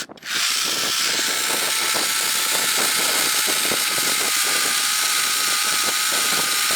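A 10.8 V cordless electric chainsaw running steadily under the trigger, with a steady motor whine over the chain's hiss. It cuts out for a moment at the start and spins straight back up.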